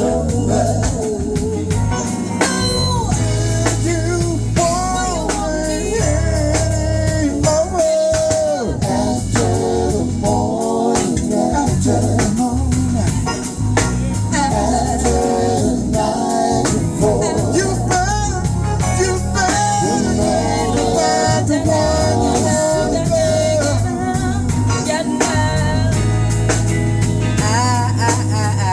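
A band playing a blues-tinged song with drums, bass and guitar, and a singing voice over it.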